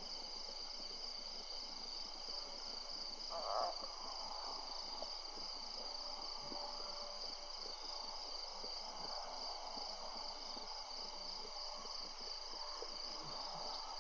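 A steady chorus of night insects, a continuous high pulsing trill. About three and a half seconds in there is one short, louder rushing noise, like a puff of breath or a rustle close to the microphone.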